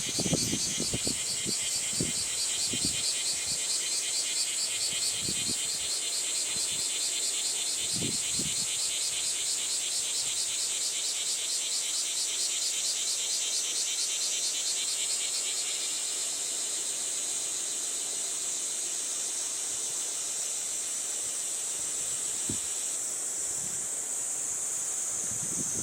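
Chorus of insects trilling steadily at high pitch: a fast-pulsing lower trill drops out near the end while a higher, steady one carries on. A few brief low gusts of wind buffet the microphone.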